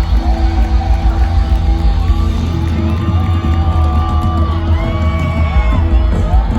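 Live rock music from a band on stage, loud with a heavy pulsing bass and long held notes, with a crowd whooping and yelling over it.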